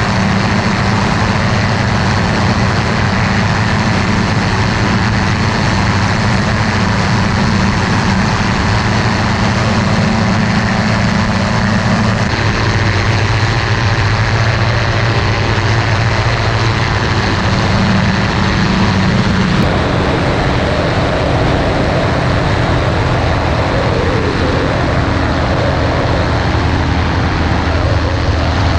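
Fox ultralight aircraft's engine and propeller running steadily under a broad rushing noise, the engine note changing about 12 seconds in and again about 20 seconds in.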